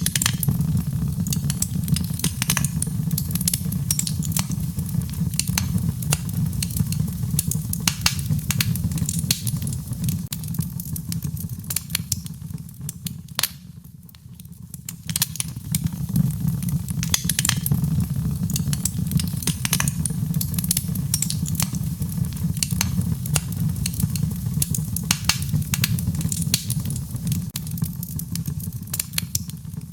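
Wood fire in a fireplace crackling, with frequent sharp pops and snaps over a steady low rumble of the flames. It briefly quietens about halfway through, then picks up again.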